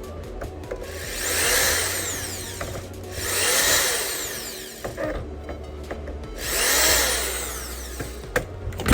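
Small electric screwdriver whirring in three separate runs, each speeding up and winding down, driving screws out of a PlayStation 5's casing; a few light clicks near the end.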